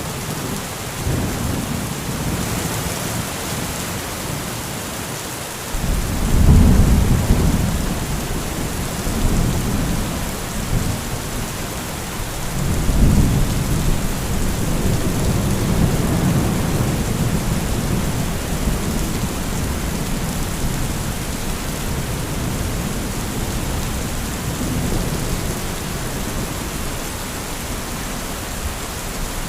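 Heavy thunderstorm: steady rain hiss with rolling thunder. A deep rumble swells in about six seconds in, the loudest moment, and a second one about thirteen seconds in, rumbling on for a few seconds before easing back to the rain.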